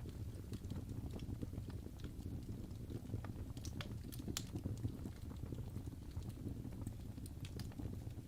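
Log fire in a fireplace burning steadily: a low rumble of flames with irregular sharp crackles and pops from the burning wood.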